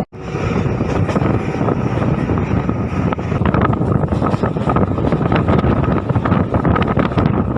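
Moving MEMU electric train: steady rumble of wheels on the track with many short rail clicks, and wind buffeting the microphone.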